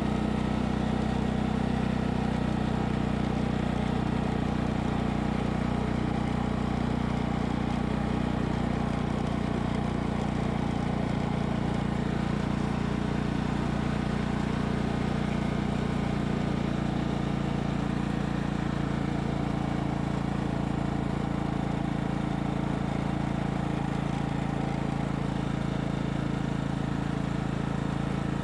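Craftsman riding lawn mower's engine running at a steady speed as the mower is driven along, with an even, unchanging tone.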